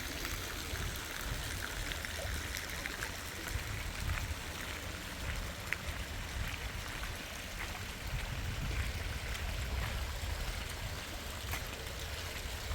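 Heavy rain falling steadily, a constant wash of water noise with scattered sharp drop ticks.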